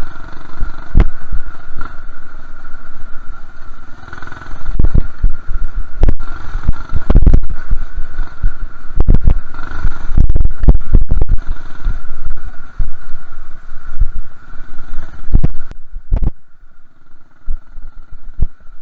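Minibike engine running as the bike is ridden over a rough dirt track, with heavy low thuds and buffeting on the microphone. About three-quarters of the way through, the sound drops back to a quieter engine hum.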